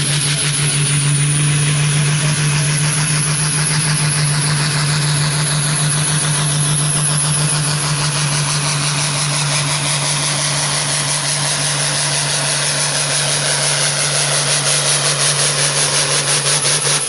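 Diesel farm-stock pulling tractor running flat out under full load as it drags the weight sled down the track. The engine holds a steady pitch, starts to pulse rhythmically near the end, and then drops away abruptly as the pull ends.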